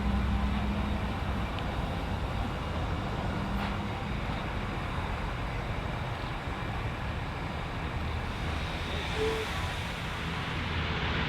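Reading & Northern steam excursion train running, a steady rumble with a low hum and no distinct beat.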